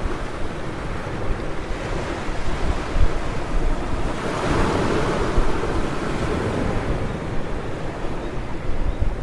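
Ocean surf washing onto a beach, with one wave swelling and breaking about four to five seconds in, and wind buffeting the microphone with a low rumble.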